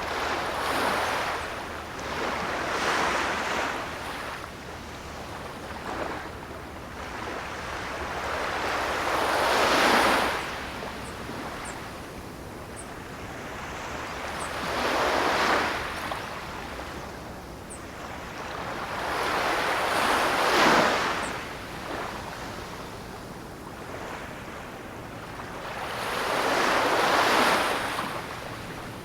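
Ocean surf, with waves washing in one after another: six surges that each build to a rushing peak and then fade, a few seconds apart.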